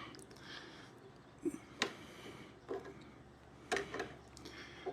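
A few scattered light clicks and taps from hand work on engine parts, with quiet room tone between them.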